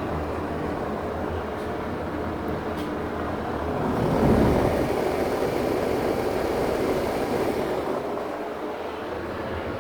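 Small Broan exhaust fan running steadily: a low motor hum under a rush of air. About four seconds in it grows louder for a few seconds, then settles back.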